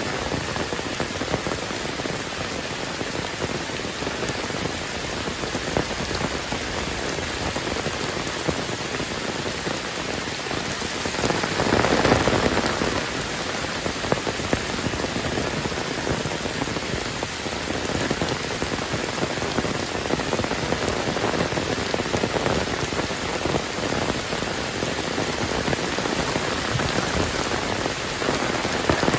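Heavy rain falling steadily, a dense hiss of many drops. It swells louder for a second or two near the middle.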